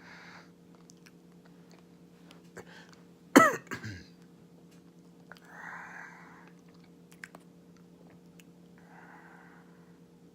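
A person coughs once, sharply, about three and a half seconds in, the pitch dropping as it fades; soft breaths come before and after it, over a steady low hum.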